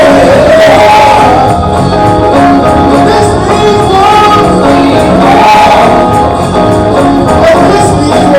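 Gospel music with a choir singing over a full band, tambourine in the mix.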